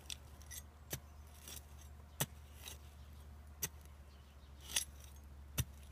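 Metal garden tool digging in soil, with a handful of sharp clinks about a second apart over a steady low hum.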